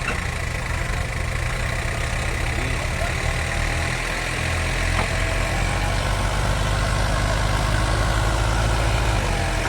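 Heavy diesel engine of farm machinery idling steadily with a low, pulsing chug, with one faint click about five seconds in.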